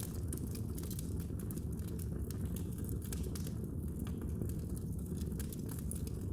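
Fire in a fireplace crackling: many sharp, irregular pops and snaps over a steady low rumble of the burning.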